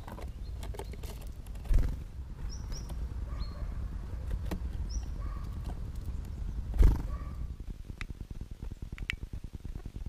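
Small birds at a wooden seed feeder, among them a great tit: a few short, high chirps, two dull thumps and, near the end, several sharp clicks, over a steady low rumble.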